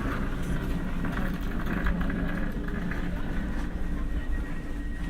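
Inside an Alstom Coradia X60 electric commuter train running between stations: a steady low rumble of wheels on rail with a faint, even hum.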